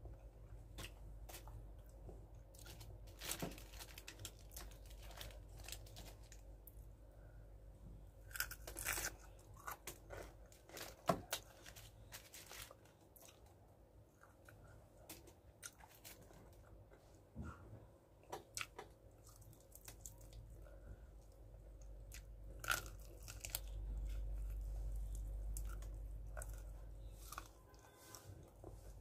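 Close-miked chewing and crunching of crispy fried chicken, with irregular crisp bites and mouth sounds, a few much louder crunches scattered through. A low rumble sits under it for a few seconds near the end.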